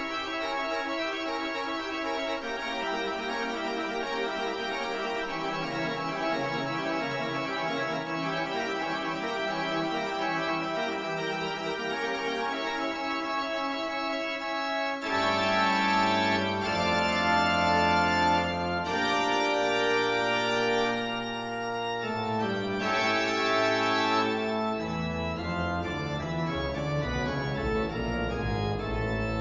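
Background organ music: held chords that change every second or two, growing louder with a deeper bass about halfway through.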